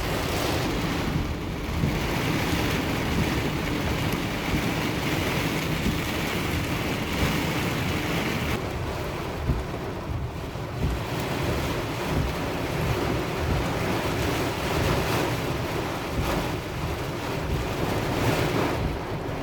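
Heavy rain pelting a moving car, heard from inside the cabin as a steady rushing noise along with the hiss of tyres on the wet road.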